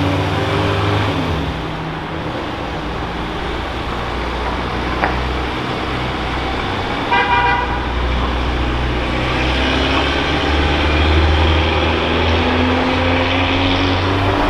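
Car engine running, with two quick horn toots a little past halfway. The engine note rises gently towards the end.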